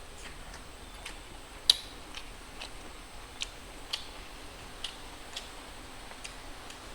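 Eating sounds: a string of about ten sharp, irregular clicks and smacks, with one louder click about two seconds in, over a faint hiss.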